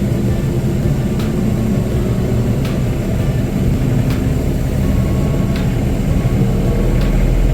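John Deere compact tractor's diesel engine running steadily under load as the tractor moves, with a faint sharp tick about every second and a half.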